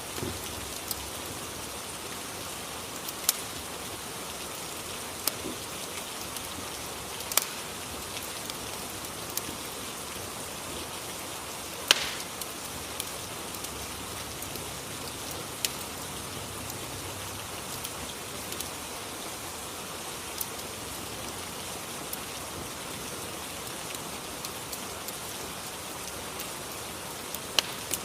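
Steady rain ambience, an even hiss, with a crackling fireplace giving scattered sharp single pops every few seconds; the loudest pop comes about halfway through.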